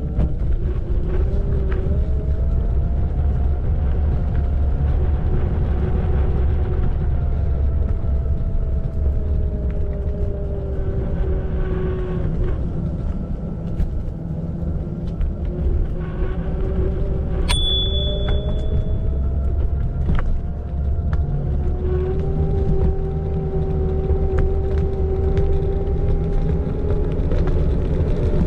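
Xiaomi Electric Scooter 4 Pro riding along: its electric motor whines, the pitch drifting up and down as the speed changes, over a heavy low rumble from the ride. About seventeen seconds in there is a sharp click with a brief high ring.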